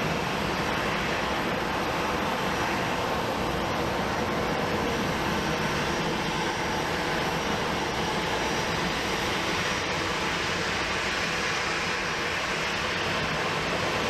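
Jet airliner engines running, a steady even rushing noise that holds at one level throughout.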